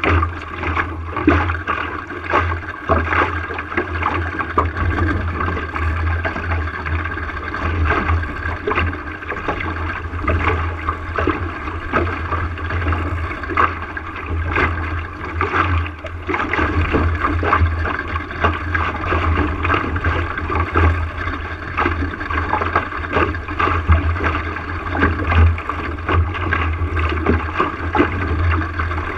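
Water splashing and gurgling against the hull of a small sailboat under way, with many small slaps, over a steady low rumble.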